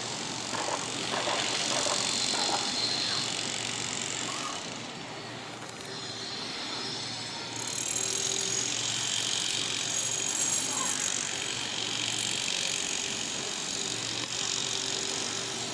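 Steady outdoor background rush, like distant road traffic. About halfway in, a high, continuous trilling joins it.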